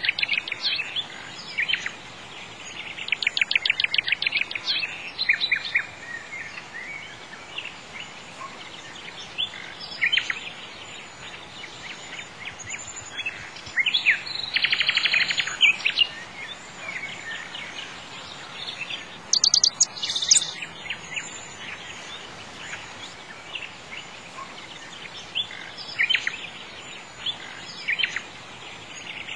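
Birds singing: chirps, with a rapid trill that comes back several times, over a steady outdoor hiss.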